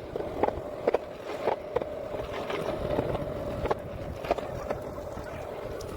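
Longboard wheels rolling steadily on pavement with a constant hum, with short sharp clacks every half second or so at uneven spacing.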